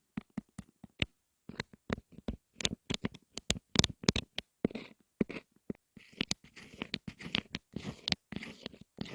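ASMR tapping and scratching on objects close to the microphone: quick, irregular taps and clicks, with short scratchy rustles between them in the second half.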